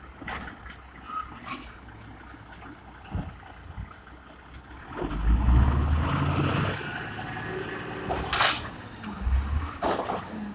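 Diesel engine of a 1995 White GMC automated side-loader garbage truck, quieter at first and then revving up about halfway in and staying loud. Two sharp air hisses from the truck's air system come near the end.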